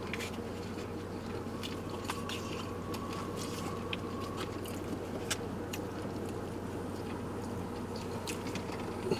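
A man chewing food, with small scattered clicks of a plastic fork and container, over a steady low hum inside a car cabin.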